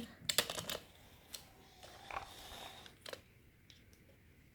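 Light plastic clicks and taps of toy cars and a toy car-carrier trailer being handled, a quick cluster near the start and a few single clicks after.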